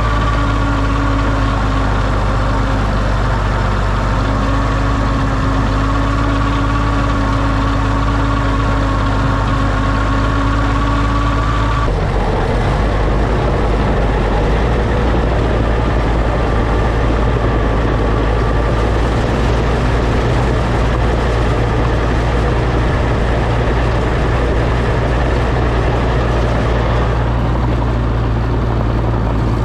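Oliver OC-6 crawler tractor's engine running steadily. About twelve seconds in, its even hum changes to a rougher, noisier running note.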